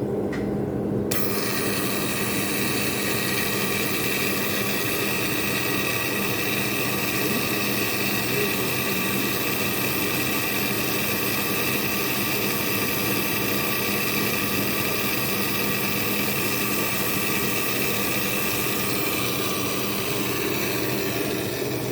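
A machine running steadily: a low hum with several steady tones, joined about a second in by a high whine.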